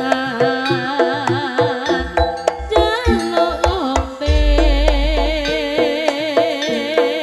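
Live Javanese jaranan ensemble music: a wavering melody line over stepping pitched notes and hand-drum strokes, with a deep low note swelling in about four seconds in and fading.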